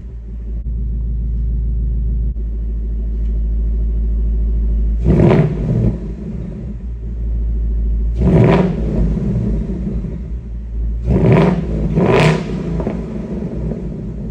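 2024 Ford Mustang GT's 5.0-litre V8 idling with a steady low rumble through its stock active exhaust, revved briefly four times: about five seconds in, again a few seconds later, then a quick double rev near the end.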